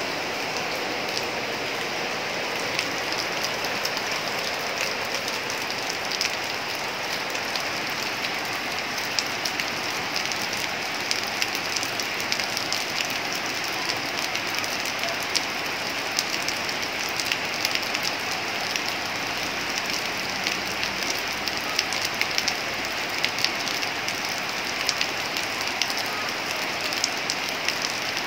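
Heavy rain falling steadily on corrugated metal roofing and foliage: a dense hiss with many sharp ticks of drops striking.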